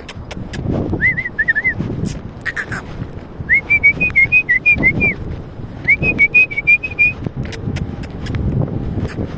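Three runs of short, quick whistled notes, each note rising and falling, the middle run the longest. Many sharp clicks sound throughout.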